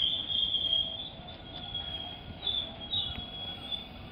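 An electric train slowing into a station platform, its wheels and brakes giving a high, steady squeal. The squeal is loudest in the first second, fades, then flares up again twice near the end over a low rumble of the running gear.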